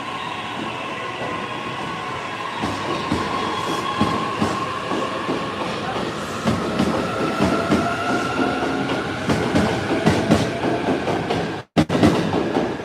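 Train moving along a station platform, its wheels clattering over the rail joints, growing louder from a few seconds in, with a steady high whine over it. The sound drops out for an instant near the end.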